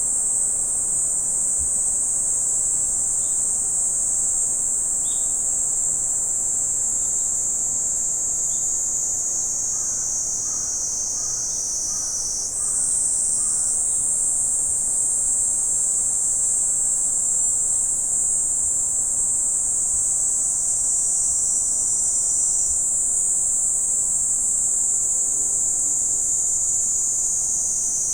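Steady high-pitched chorus of insects. A few faint short bird chirps come in around the middle.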